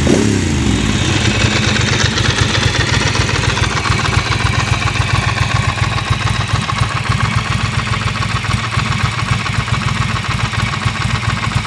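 Ducati Monster 620's air-cooled V-twin idling through a Termignoni dual exhaust, with an even, pulsing beat. At the start a throttle blip falls back to idle.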